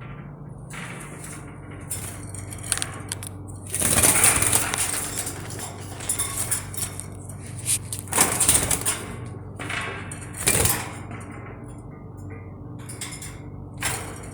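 Pet birds calling in several loud, sharp bursts, the loudest about four seconds in, over a steady low hum.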